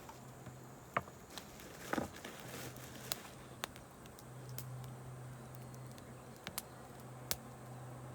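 Wood campfire crackling: a handful of sharp pops scattered through, the loudest two in the first couple of seconds, over a steady low hum.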